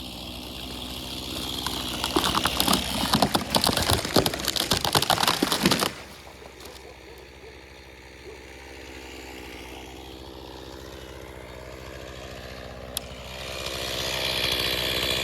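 Chainsaw at a large hickory tree: a few seconds of loud crackling and cracking that stop suddenly, then the saw running low and steady, growing louder again near the end.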